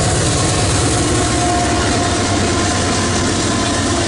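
Freight train rolling past close by at a steady loud level: steel wheels rumbling and clattering on the rails, with the low diesel drone of its GE AC4400CW distributed-power locomotive.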